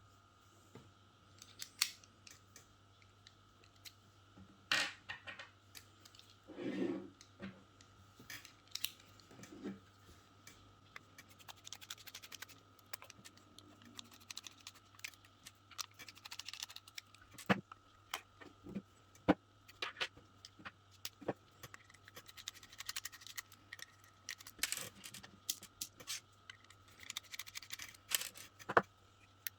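Small plastic and metal parts being handled and pried apart during a teardown, giving irregular sharp clicks, taps and short scrapes, with a longer scrape about seven seconds in.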